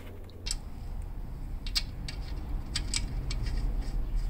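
Scattered light clicks and taps of tools and parts being handled under a car during an oil change, over a low rumble.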